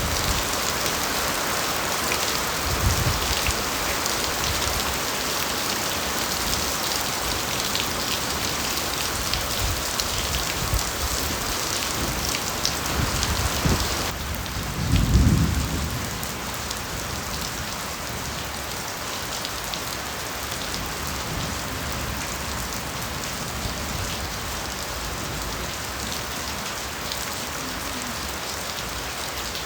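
Steady rain falling on bamboo foliage, an even hiss. About halfway through, the sound abruptly turns slightly quieter and duller, and a short low rumble follows.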